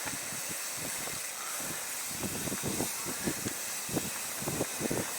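Steady wind and air hiss on the microphone while riding, with irregular low thumps and rattles from the ride over the ground.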